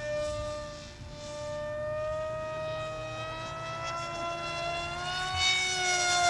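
Radio-controlled model airplane in flight: a steady, high motor-and-propeller whine that grows louder and rises slightly in pitch over the last few seconds.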